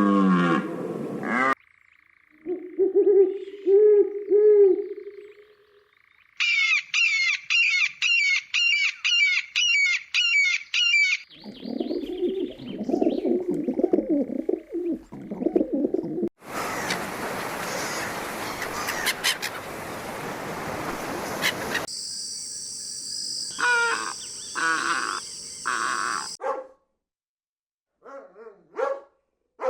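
A string of different animal calls, one short clip after another: pitched calls, a fast even series of chirps, rougher lower calls, a few seconds of hiss, and short calls near the end.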